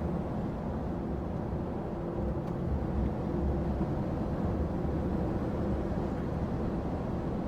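Steady low drone of a lorry's engine and road noise, heard from inside the cab while driving.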